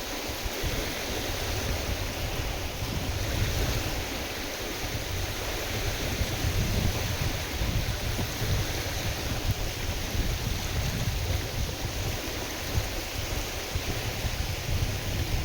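Wind-driven waves splashing on a lake, with gusting wind buffeting the microphone as an uneven low rumble.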